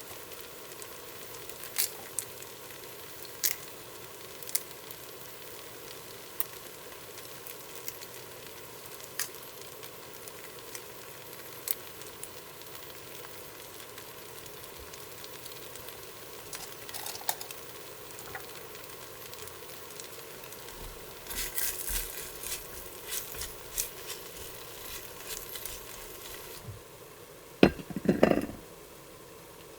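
Food sizzling steadily in a pan, with scattered clinks of utensils against cookware. A busier run of clinks comes about two-thirds of the way in, and a louder clatter near the end.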